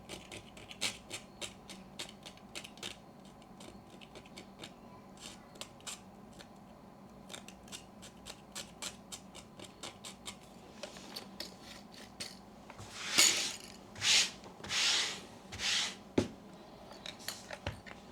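Light ticks and scrapes of small hand work on a film camera body, then four louder rubbing, scraping strokes about a second apart and a sharp knock: the old light-seal material being scraped out.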